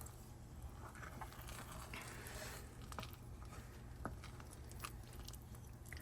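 Faint kitchen handling sounds: scattered light clicks and taps over a steady low hum.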